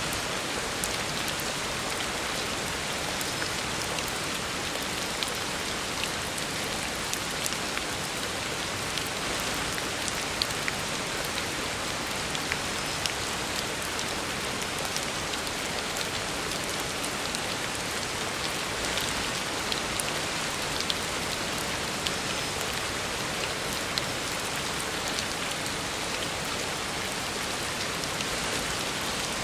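Heavy rain falling steadily on a road, a dense even hiss scattered with the small ticks of separate drops.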